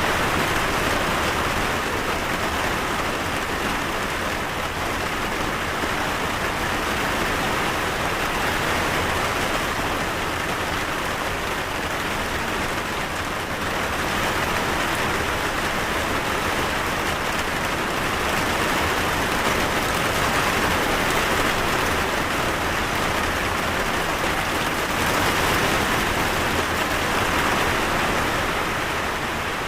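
Steady rain falling, an even hiss that swells and eases a little over the stretch.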